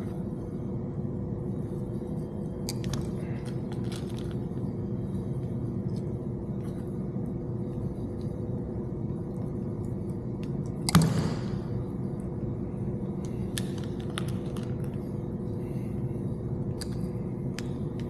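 Steady mechanical hum with scattered small clicks of handled parts and tools, and one sharper knock about eleven seconds in.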